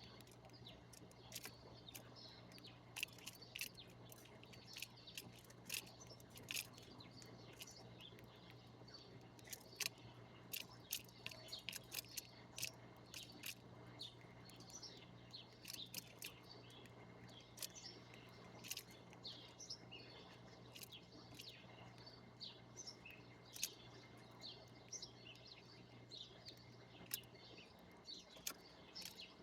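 Small birds chirping: many short, sharp chirps from several birds, coming thick and irregular, over a faint low hum.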